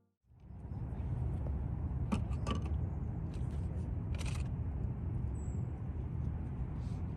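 Steady low rumble of outdoor background noise, with a few scattered clicks and one brief high chirp.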